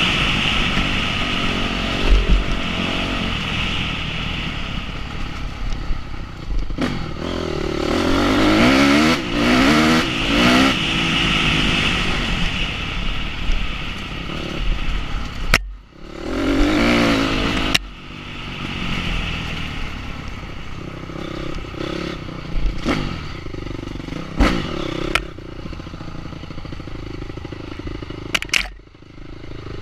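Enduro motorcycle engine revving up and falling back again and again, with clattering and scraping knocks over rough ground.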